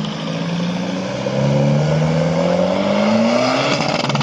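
Car engine accelerating hard, its pitch climbing steadily and its level rising from about a second in.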